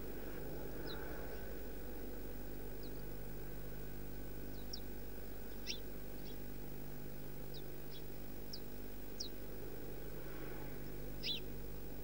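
Small birds giving scattered short, high chirps, about a dozen of them, the loudest near the end. A steady low hum and hiss runs underneath.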